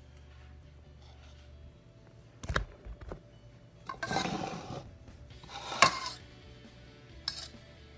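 A utensil knocking and scraping against a bowl of mixed papaya salad: two short knocks, then two scrapes of about a second each, the second ending in a sharp clink, and a light click near the end.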